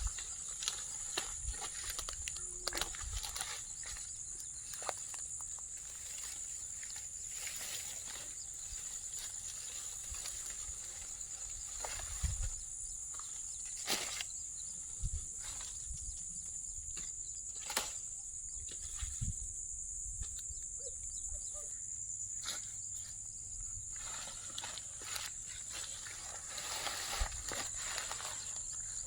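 Steady high-pitched insect drone, like cicadas or crickets, with scattered light clicks and knocks.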